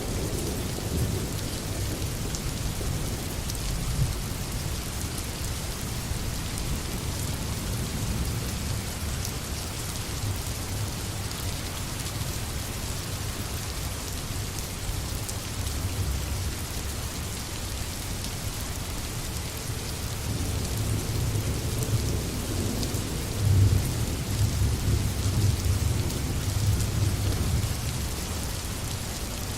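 Steady heavy rain falling, an even hiss, with a low rumble of thunder underneath that swells and surges in the last third.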